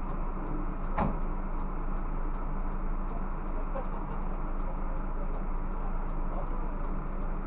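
Steady drone of a Scania bus heard from inside, engine and road noise together, with one sharp knock about a second in and faint small rattles throughout.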